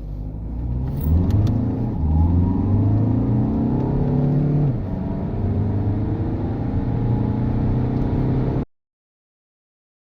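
Skoda Octavia Mk3 engine accelerating hard from a standstill, the revs climbing and dropping back at gear changes about two and five seconds in. The sound cuts off suddenly near the end.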